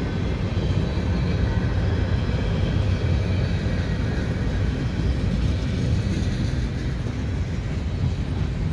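Freight cars rolling past on the rails: a steady, low-pitched running noise of steel wheels on track.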